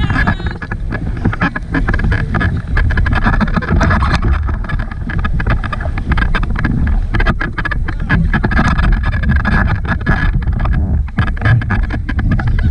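Wind rushing and buffeting on the microphone over the steady running of a motorboat on open water.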